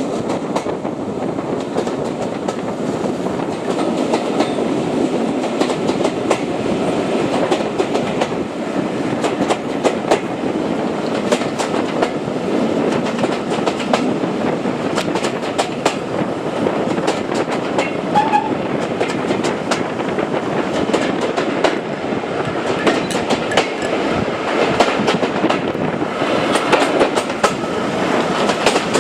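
Train running along the track: a steady rumble of wheels on rails with irregular sharp clicks as the wheels pass over rail joints.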